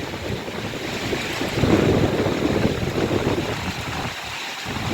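London Northwestern Railway electric multiple unit pulling out of the station, a steady rumble of wheels and traction that swells for a couple of seconds then eases, with wind buffeting the microphone.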